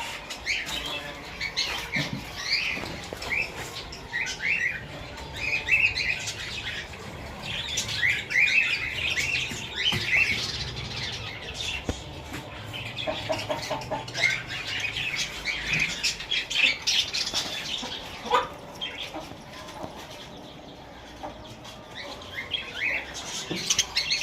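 Many aviary birds chirping and chattering together. Short high chirps come thick and fast in clusters, with a few lower calls in between.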